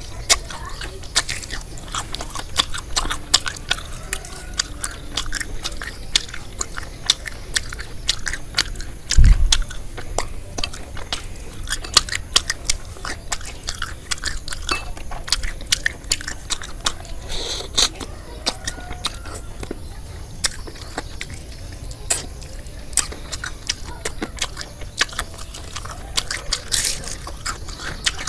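Close-up chewing and crunching of batter-coated deep-fried frog, with many small crisp crackles as the fried coating is bitten and torn. A single loud, low thump comes about nine seconds in.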